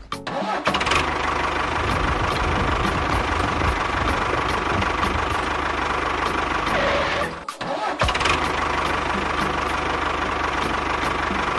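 A motor engine running steadily. It breaks off for a moment about seven and a half seconds in, then runs on again.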